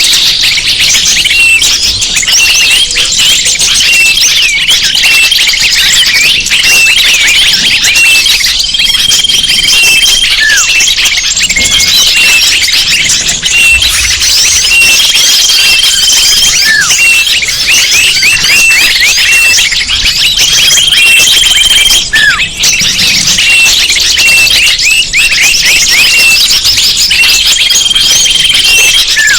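Bird-lure recording: a dense chorus of many small songbirds chirping and twittering over one another, used to call wild birds in. A short held whistle and a falling note come back about every six seconds, as the recording repeats.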